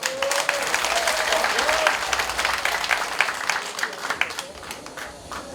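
Audience applauding in a hall, a dense burst of clapping that starts at once and thins out over the last few seconds, with a faint voice calling out over it early on.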